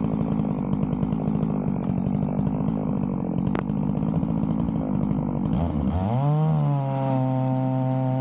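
Chainsaw running under load, cutting through a log in a chainsaw mill. About six seconds in it gives way to a single held tone that rises briefly, then holds steady.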